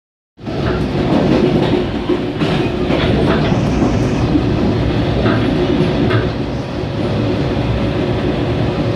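Mugunghwa-ho passenger train running along the rails with a steady rumble, and a few irregular clicks of the wheels crossing rail joints.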